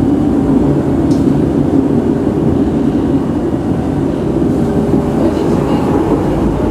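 Tram running along the line: a steady rumble of steel wheels on rails and running gear.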